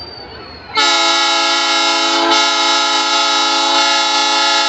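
Train horn sounding one long, loud blast that starts suddenly about a second in and is held steady as a chord of several tones.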